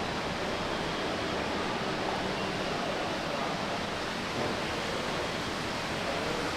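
Steady shopping-mall background noise: an even, unbroken wash of hubbub and air-handling hiss.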